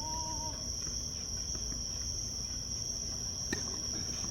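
Insects singing in a steady high-pitched drone, with a brief voice-like call right at the start and a single faint click about three and a half seconds in.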